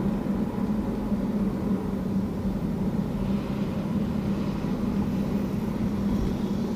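Steady engine and tyre noise of a car driving at low speed, a constant low hum heard from inside the cabin.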